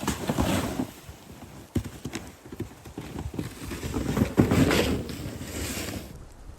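Snow crunching underfoot in a few heavy, uneven steps.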